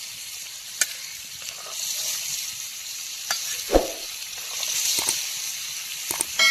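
Pork curry frying and sizzling in a pot as it is stirred, the hiss swelling and easing, with a few sharp knocks against the pot, the loudest a little under four seconds in.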